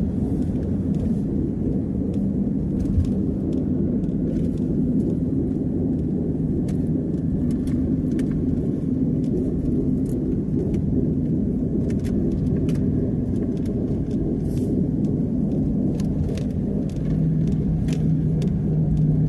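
A car driving steadily, with engine and road rumble heard from inside the cabin and scattered light ticks throughout.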